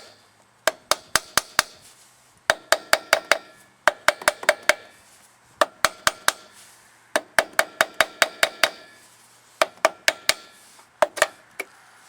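Ratchet wrench clicking in quick runs of about five sharp, ringing metallic clicks a second, with short pauses between runs, as it backs out the screws of a truck's front locking hub.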